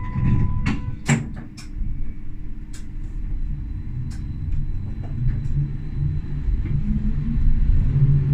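Tram cab sounds: a steady beeping tone stops about a second in, followed by several sharp clunks and clicks. Then a low rumble with a steady hum from the tram's traction motors and wheels builds as it moves off.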